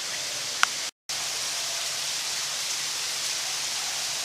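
Steady hiss like running water, with one sharp click about two-thirds of a second in and a moment of dead silence about a second in.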